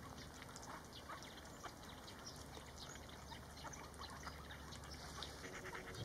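Faint, scattered small ticks and clicks of waterbirds pecking at food on ice, with a soft waterbird call starting near the end.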